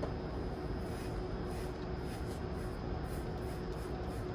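Damp cloth rag wiping down engine-bay surfaces in soft, repeated rubbing strokes, over a steady background hum.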